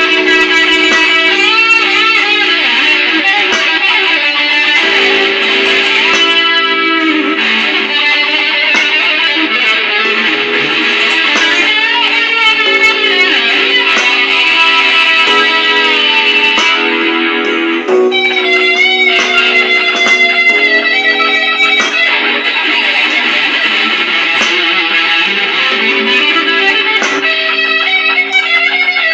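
Electric guitar played through a DigiTech effects unit, a blues line of single notes with bent, gliding pitches over held notes.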